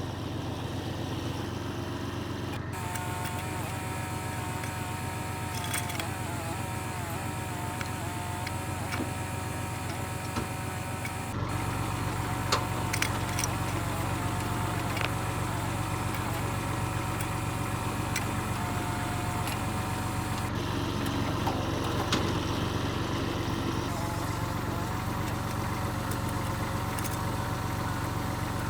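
Kubota L35 backhoe's diesel engine running steadily, with wavering higher tones and scattered clicks over it; the engine's low note grows stronger about eleven seconds in.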